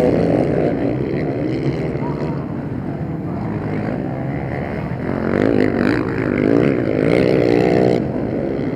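Motocross bike engines revving as the bikes ride past, the pitch rising and falling with the throttle and growing louder in the second half.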